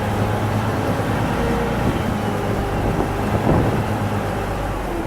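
Shuttle boat's engine running steadily on the river, a low drone under the rush of water and wind.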